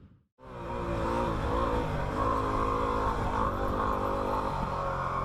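Yamaha WR250R's single-cylinder four-stroke engine running while the dirt bike is ridden, starting about half a second in, its pitch rising and falling with the throttle.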